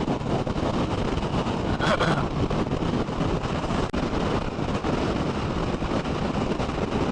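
Riding noise from a moving Royal Enfield 650 parallel-twin motorcycle: wind buffeting the microphone over the steady drone of engine and road.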